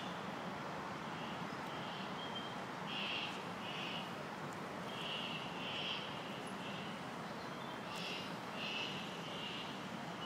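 A bird repeating short, high calls, often two close together, over a steady hum of outdoor background noise.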